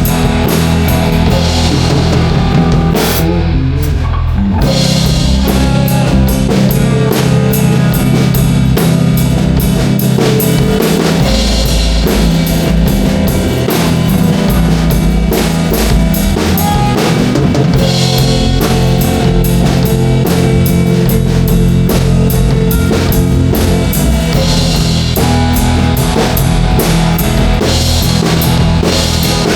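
Rock band playing an instrumental passage without vocals, driven by a drum kit with bass drum and snare. The cymbals and high end drop out briefly about three seconds in, then the full band comes back in.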